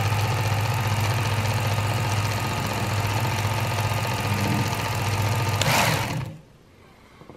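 Work Sharp Ken Onion Edition belt knife sharpener running continuously, a steady motor hum with belt whir. It stops about six seconds in and the sound drops away quickly.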